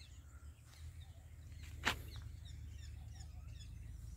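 Faint small birds chirping over a low steady rumble, with one sharp click about two seconds in.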